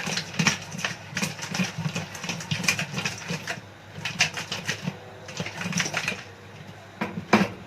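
Crabs being stirred in a metal cooking pot: shells and the utensil clatter and scrape against the pot in quick irregular knocks, with one sharp knock near the end.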